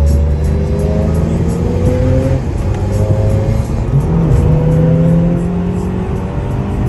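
Car engine running under way, its pitch rising several times in a row as the car accelerates, with music playing alongside.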